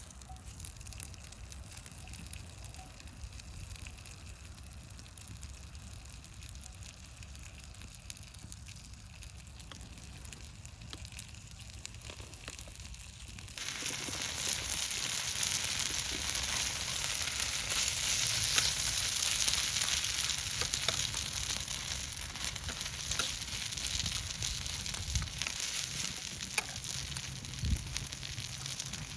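Food sizzling in a hot pan, starting suddenly about halfway through as a loud, dense sizzle with crackling ticks; before that, only a faint hiss with scattered ticks.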